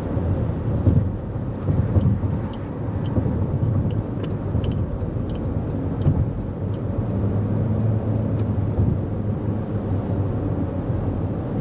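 A 2024 Toyota Corolla Cross at highway speed, its tyre and road noise making a steady low rumble, with a few faint ticks.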